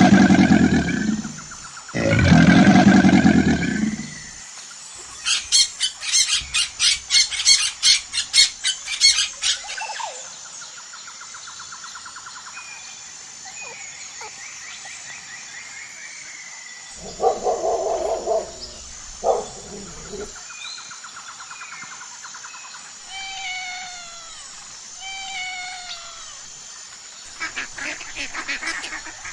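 A run of different animal calls: two long loud calls at the start, then a quick series of about a dozen sharp calls. Later come fainter calls and a few short falling chirps.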